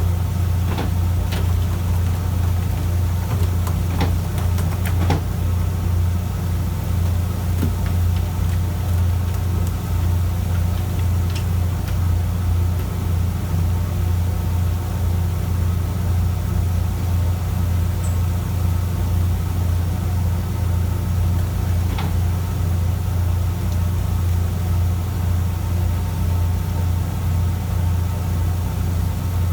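Fishing boat's engine running steadily, a low drone, with a few light knocks in the first five seconds and another about twenty-two seconds in.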